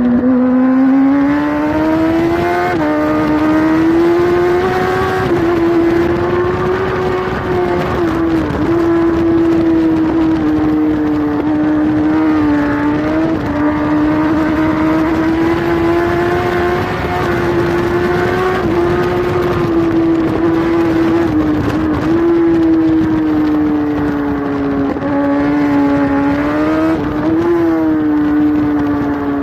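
Kawasaki superbike engine heard from on board at racing speed, held at a high, nearly steady pitch with a few short dips and small rises, over a rush of wind noise.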